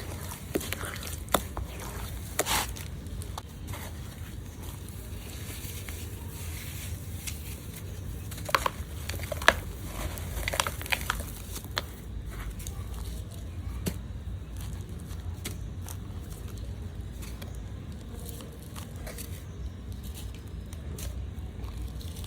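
Hands crumbling and crushing lumps of dry and wet red dirt, with scattered gritty crackles and squishes. The crackles come thickest and loudest from about eight to eleven seconds in.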